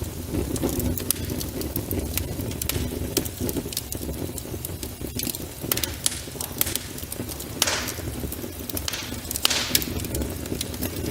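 Crackling log-fire sound from an electric fireplace's built-in fire sound effect: a steady low rumble with frequent sharp pops and snaps, a few of them louder in the second half.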